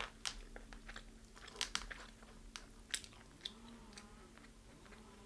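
A person biting and chewing crispy deep-fried chicken: scattered sharp crunches at irregular intervals over a faint steady hum.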